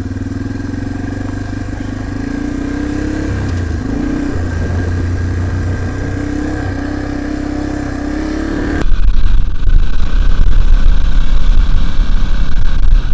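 Dirt bike engine running under way, its pitch rising and falling with the throttle. About nine seconds in the sound cuts abruptly to a much louder, deep rumble over the engine.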